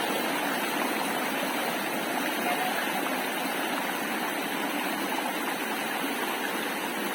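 Steady rush of water pouring over a low waterfall and flowing past the dining tables, an unbroken hiss without change.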